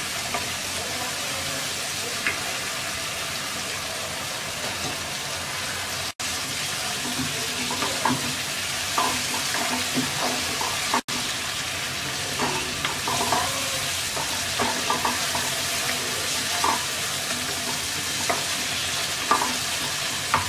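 Hilsa fish pieces frying in onion-and-spice masala in a wok: a steady sizzle, with a wooden spatula scraping and knocking against the pan from about a third of the way in.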